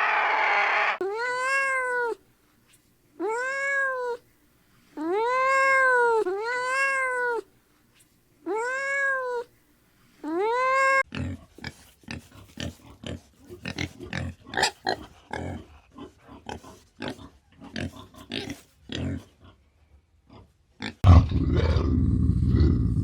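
A cat meowing six times, each meow about a second long, rising and then falling in pitch. Then about ten seconds of irregular clicks and knocks, and near the end a loud, steady low noise.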